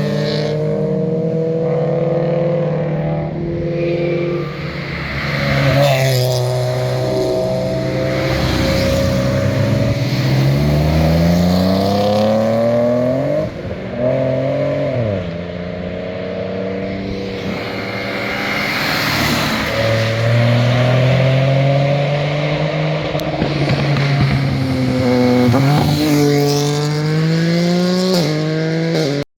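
Performance car engines accelerating past under hard throttle: the exhaust notes climb steeply with the revs and drop back at each gear change or lift, several times over, loud throughout.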